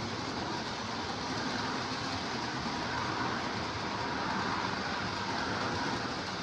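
Lionel O gauge model trains running on three-rail track: a steady rumble of wheels and electric motors, a little louder in the middle.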